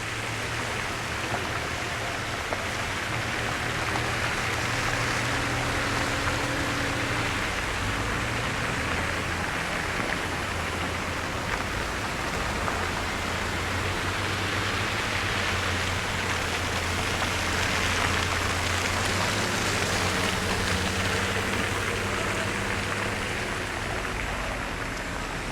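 Traffic on a slushy, snow-covered road: a steady hiss of tyres through wet snow over a low engine hum, swelling as vehicles pass about five seconds in and again near eighteen seconds.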